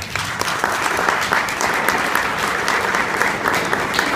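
Audience applauding, many hands clapping at once, starting abruptly and going on steadily.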